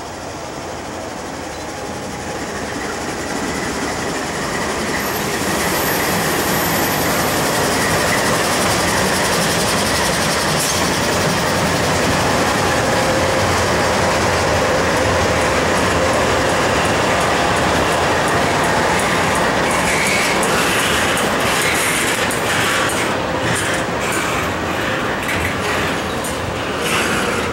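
Norfolk Southern freight train passing close by: GE diesel locomotives (D9-44CW and ES44DC) go by first, the sound growing louder over the first several seconds and then holding steady. Double-stack container well cars follow, rolling past, with sharp wheel clicks and clatter over the rail joints in the last several seconds.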